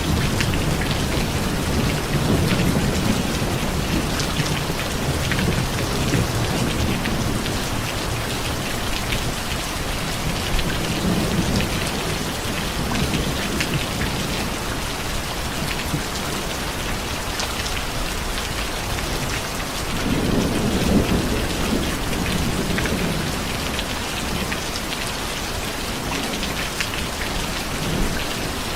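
Steady rain falling, with low rolling thunder rumbling under it for the first several seconds and again about twenty seconds in.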